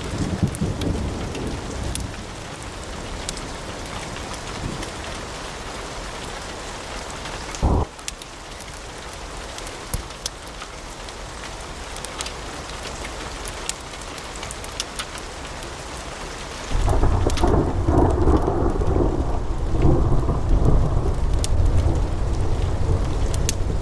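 Wood fire crackling, with scattered sharp pops and one louder snap about eight seconds in, over a steady hiss. About seventeen seconds in it switches abruptly to a louder, deep rumble of flames with fewer crackles.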